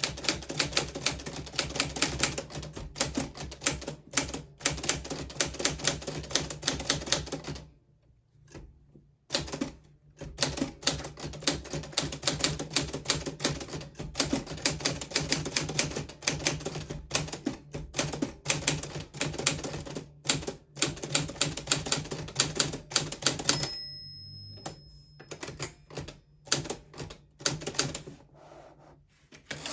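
Typing on a 1940s Smith Corona Silent manual typewriter: rapid clacking keystrokes. There is a pause of about two seconds about a third of the way in, and the strokes come slower and sparser near the end.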